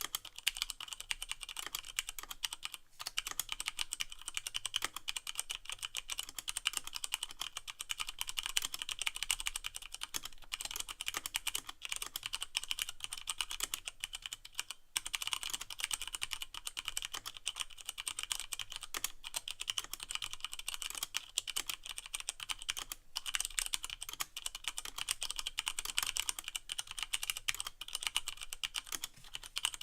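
Continuous fast typing on a Leopold FC660M mechanical keyboard with Cherry MX Brown switches and no O-rings, the keys bottoming out on the plate, with brief pauses now and then.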